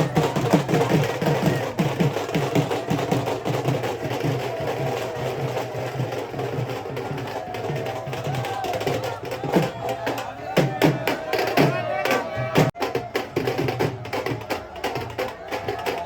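Music with a rapid beat of drums and clacking percussion, with voices over it.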